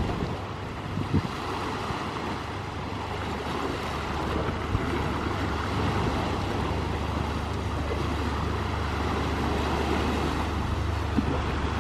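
Steady rushing outdoor ambience with a low rumble, like wind on the microphone, and a soft thump about a second in.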